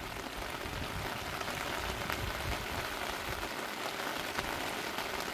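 Steady rain falling on wet pavement, an even hiss of rain with scattered single drops ticking.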